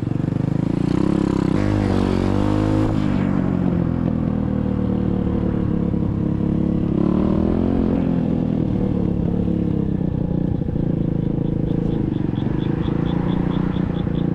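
SSR 125cc dirt bike's single-cylinder four-stroke engine running under way, its pitch rising and falling with the throttle, climbing about two seconds in and again about seven seconds in.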